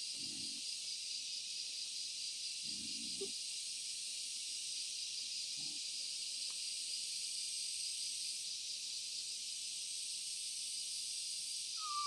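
Steady, high-pitched insect chorus, an unbroken shrill drone, with a couple of brief low sounds near the start and about three seconds in.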